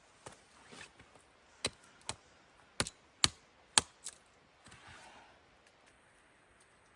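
A run of about seven sharp cracks at uneven intervals over some four seconds, the loudest two near the middle.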